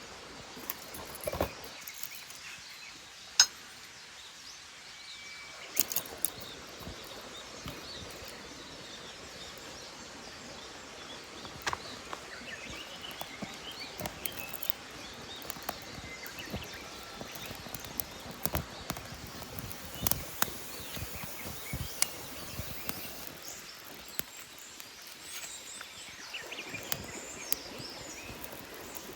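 Steady rush of a clear forest stream with faint bird calls, broken by scattered sharp clicks and knocks, the loudest about three seconds in.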